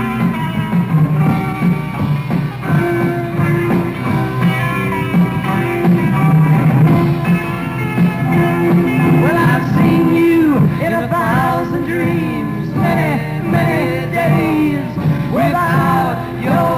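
Live rock band playing an instrumental passage: electric guitar over bass and drums, with bending lead notes in the second half.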